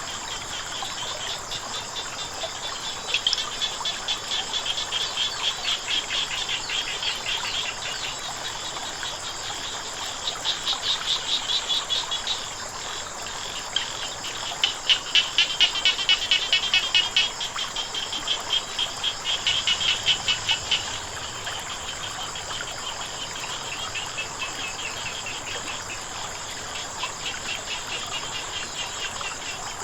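Frogs calling in bouts of rapid pulsed croaks, about three a second, several bouts in turn, loudest in the middle, over a steady high trilling of insects.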